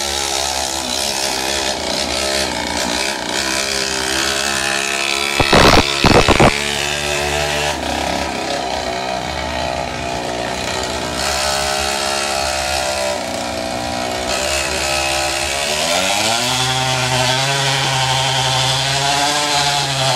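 Small engine of a pocket bike (mini motorbike) running as it is ridden, its pitch rising and falling, with a rev climbing about sixteen seconds in. A few very loud crackling blasts come about six seconds in.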